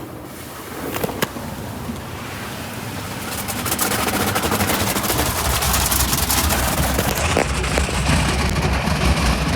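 Automatic car-wash water jets spraying against the car's body and windows, heard from inside the car: a rushing hiss with rapid pattering that grows louder about three seconds in and stays heavy, over a low rumble.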